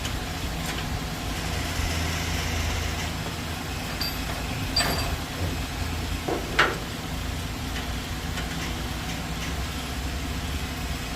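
An engine running steadily at idle, a low hum, with a few sharp metallic clicks of work, the loudest about six and a half seconds in.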